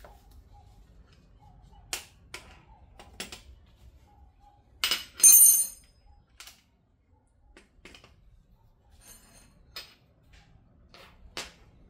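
Scattered clicks and knocks of metal hand tools and parts being handled, with a louder metallic clatter about five seconds in.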